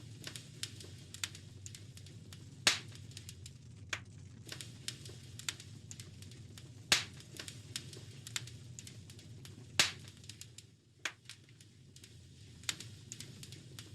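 Wood fire crackling in a fireplace: a run of small sharp snaps with three louder pops, a few seconds apart, over a low steady rumble.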